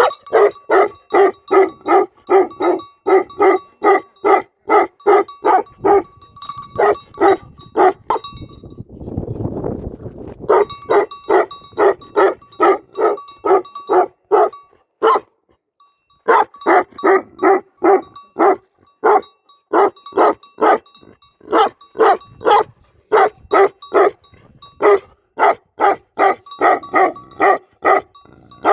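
Tibetan Mastiff barking over and over in a steady run, about two to three deep barks a second. The barking pauses twice: about eight seconds in, when a short low rumble is heard, and again briefly about halfway through.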